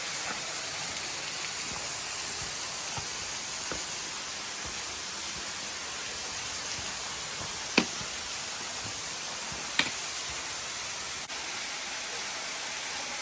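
Steady rushing hiss of falling water from a nearby waterfall. Two short sharp clicks sound about eight and ten seconds in.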